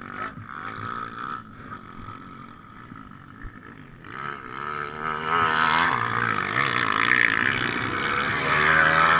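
Motocross bike engine running, quieter at first, then from about four seconds in louder and revving up and down.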